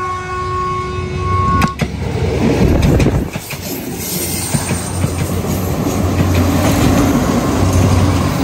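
A train horn sounds a steady chord for under two seconds. It is followed by the rumble and clatter of a passing train, which swells louder twice.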